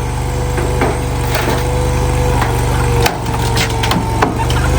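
Wood cracking and splintering in a series of sharp snaps as a small skid steer breaks up a wooden shack, over the machine's steady engine rumble and whine.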